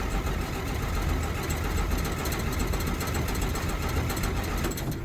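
1963 Jeep Gladiator's Tornado overhead-cam six running unevenly after catching, then dying away near the end: the hard-starting engine stalling again.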